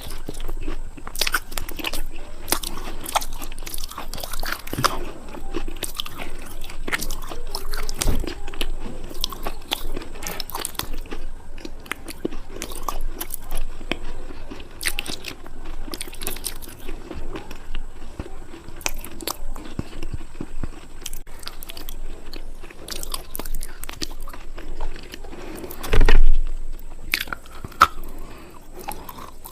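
Close-miked biting and chewing of something hard and crunchy: a fast, irregular run of sharp crunches, with a louder bite or bump about 26 seconds in.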